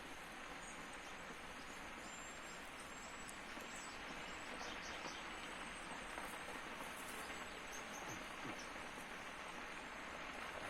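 Large forest fire burning: a steady rushing noise with scattered crackles.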